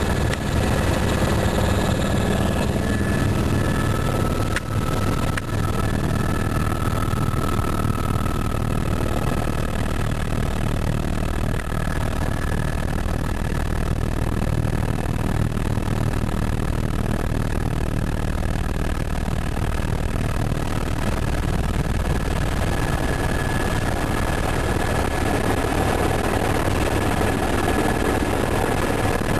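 Helicopter engine and rotor running steadily, heard from on board during a passenger ride.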